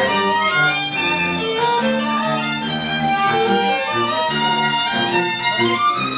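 Bowed string ensemble, violins with cello, playing a melody over held low notes.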